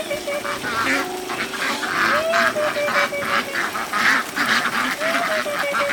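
Farm waterfowl calling: two long calls, each rising then holding level, about three seconds apart, over a constant chatter of short sharp calls.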